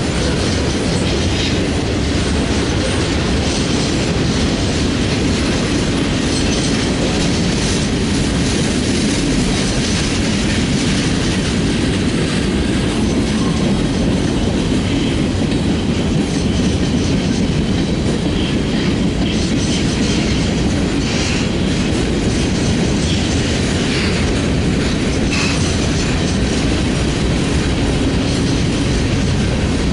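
Freight train cars rolling past at speed: a steady heavy rumble with the clickety-clack of steel wheels over the rails, and a brief wheel squeal near the end.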